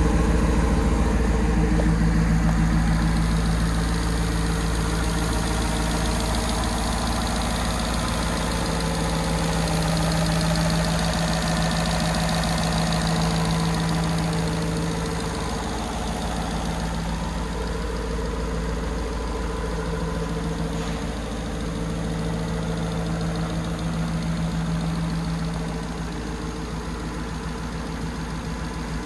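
Ford F-150's twin-turbocharged V6 engine idling steadily at an even pitch, growing slightly quieter over the half-minute.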